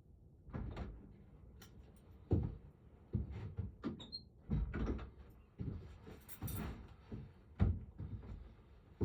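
An irregular run of knocks and bangs, with a short high squeak about four seconds in and a brief rattle a couple of seconds later.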